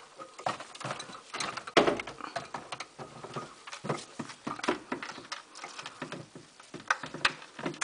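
Caique parrot biting and tearing at a broom's bristles: an irregular run of clicks, scratches and rustles.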